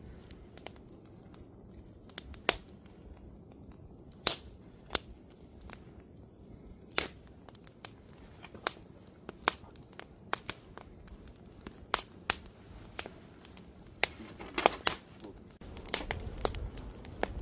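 Wood campfire crackling, with irregular sharp pops and snaps about once or twice a second over a soft hiss. A low rumble comes in near the end.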